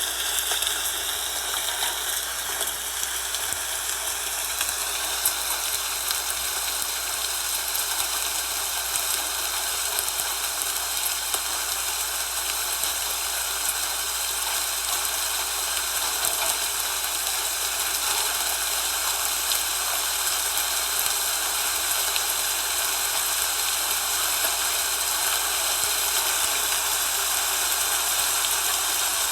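Steady, even hiss of falling snow, with no single distinct events.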